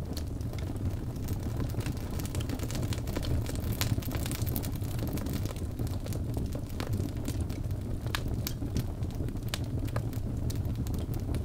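Wood fire burning in a fireplace: a steady low rumble of flames with frequent sharp crackles and pops of the logs.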